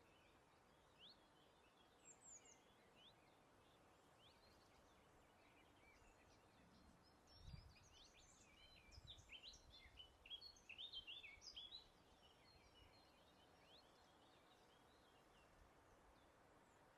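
Several small birds chirping and singing faintly over a soft, steady background hiss of breeze. The calls thicken into a busy chorus in the middle, with a brief low rumble underneath, then thin out again.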